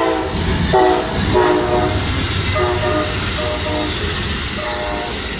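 Amtrak passenger train's locomotive horn sounding a series of short and long blasts as the train arrives, over the steady low rumble of the train on the rails.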